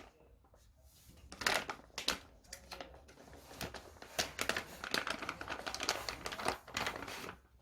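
Irregular crinkling of plastic packaging and small sharp clicks as small parts are handled.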